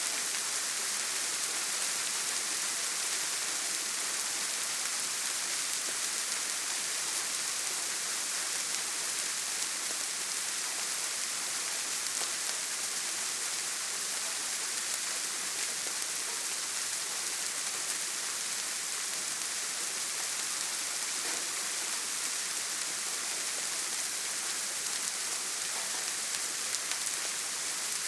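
Heavy rain falling steadily on a tin roof, a dense, even hiss with no breaks.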